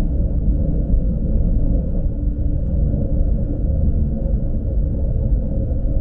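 Lastochka electric train running, heard from inside the carriage: a steady low rumble from the wheels and running gear, with a faint hum over it.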